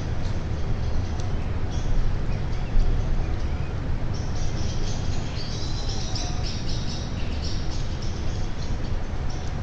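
Birds chirping and calling in quick, high notes, thickest in a dense run through the middle, over a steady hiss of rain and a low rumble.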